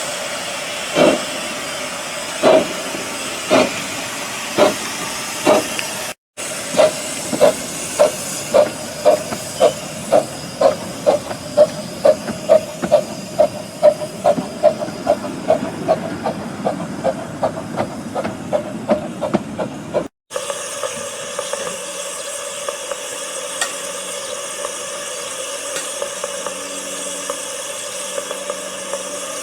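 Miniature steam locomotive pulling away, its exhaust chuffs quickening from about one a second to about three a second. About twenty seconds in, this gives way to a steady hum with several held tones.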